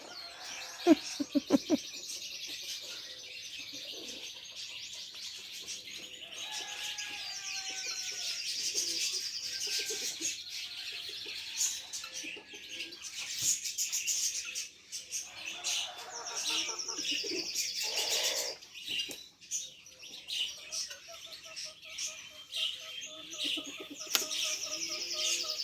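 Many small birds chirping and trilling at once in a steady, dense chorus, with scattered lower calls and a few short knocks.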